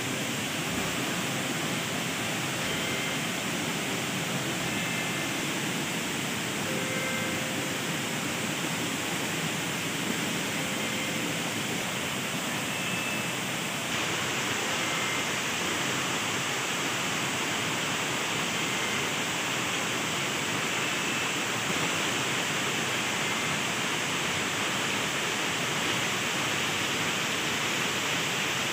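Waterfall rushing in a steady, dense roar of falling water, a little louder from about halfway on.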